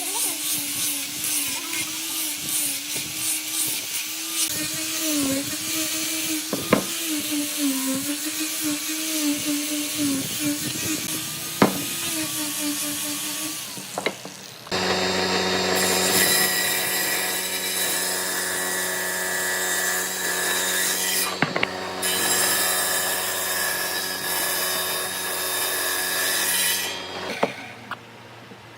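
Power tools working wood. For the first half a motor runs with its pitch dipping and wavering as it bites into the wood. About halfway through the sound changes abruptly to a different, steadier machine hum with the hiss of cutting, which drops away near the end.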